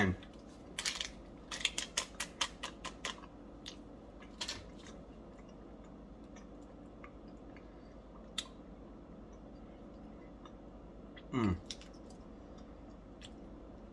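A person chewing a crunchy peanut candy, a quick run of crunching clicks over the first few seconds and then a couple of single crunches. Near the end comes a short "mmm" of approval, falling in pitch.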